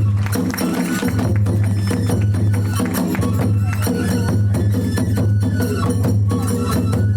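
Kagura hayashi ensemble playing a fast, steady piece: rapidly struck tebyoshi hand cymbals and taiko drums under a fue flute melody that steps between held notes.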